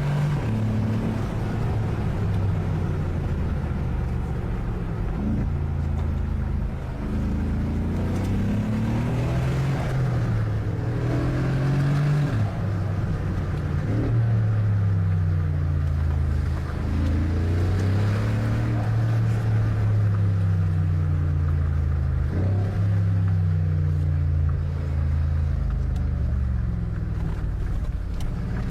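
Mercedes G63's 5.5-litre biturbo AMG V8 under hard driving. The engine note repeatedly climbs and falls, with several sudden drops in pitch.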